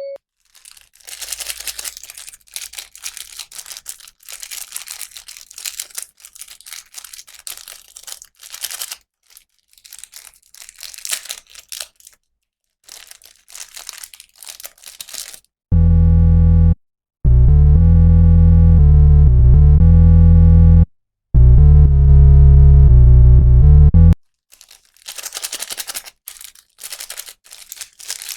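Plastic packaging crinkling and tearing in irregular bursts as a toy is unboxed. About 16 seconds in, loud electronic music with heavy bass cuts in for about eight seconds, with two short breaks, then the crinkling resumes.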